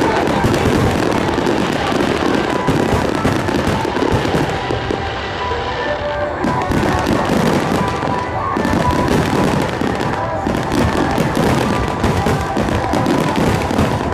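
Fireworks display: a dense, continuous barrage of aerial shells bursting, many bangs and pops overlapping, with music underneath.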